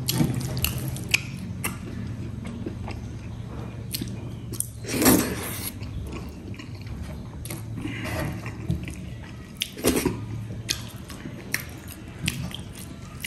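A person chewing food with close wet mouth sounds and small clicks, with two louder mouth noises about five seconds in and again near ten seconds.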